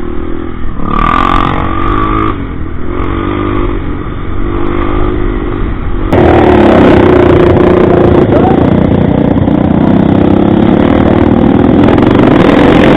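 Motorcycle engine running at a steady pitch. About six seconds in, the sound abruptly becomes louder, with a dense rushing noise over the engine.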